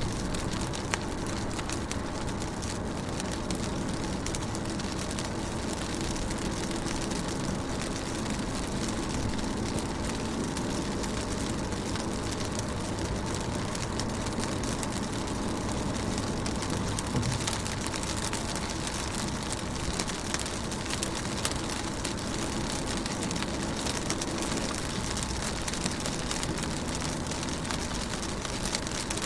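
Steady rain falling on a car's window, heard from inside the car as a dense, even spatter of drops over a steady low hum.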